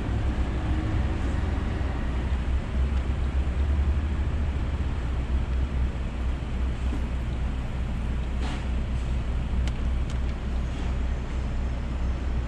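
Steady low rumble of a minivan idling close ahead, with a few faint clicks in the second half.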